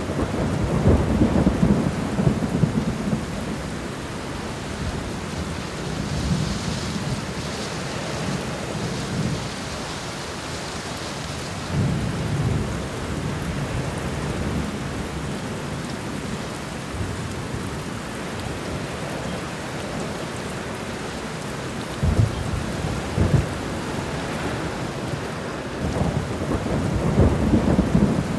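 Thunderstorm: steady rain with rolling thunder rumbling low, swelling at the start, again about twelve seconds in, in two short cracks a little past twenty seconds, and again near the end.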